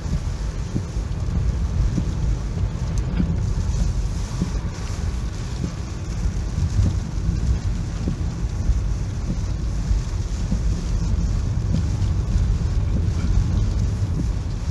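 Strong typhoon wind buffeting the microphone: a steady, uneven low rumble with scattered thumps, over a continuous hiss.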